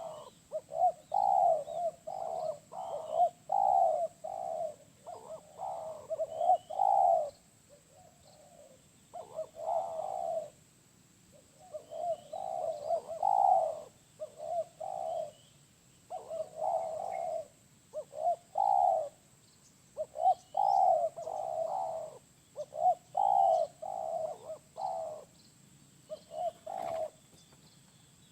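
Spotted dove (tekukur) cooing over and over in phrases of several low notes, with short pauses between the phrases. Faint chirps of small birds sound above the cooing.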